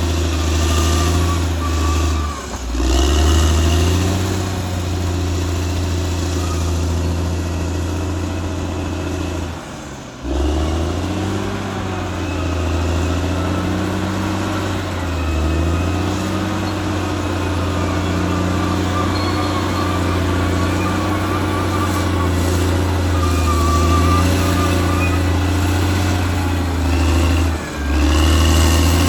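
Caterpillar D6R XL bulldozer's diesel engine running under working load, its pitch rising and falling as the load changes, with short dips in level about two seconds in, about ten seconds in and near the end.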